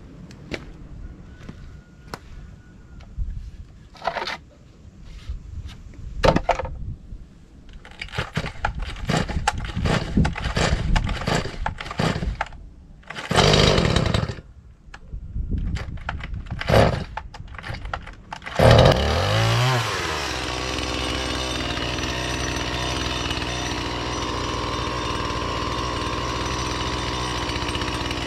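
Stihl two-stroke chainsaw, still being broken in, being readied and pull-started: clatter and a few short pulls, then the engine catches about 19 seconds in, revs up and settles into a steady idle.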